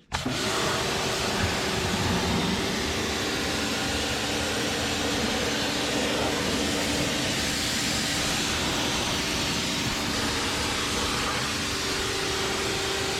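A motor-driven machine cuts in suddenly and runs steadily: a loud, constant rushing hiss over a steady motor hum.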